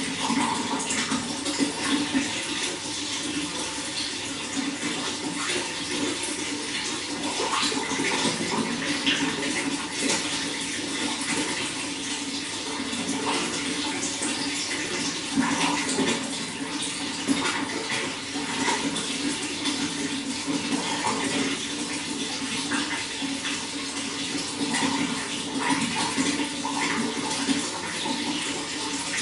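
Water running steadily, with many small splashes and gurgles through it.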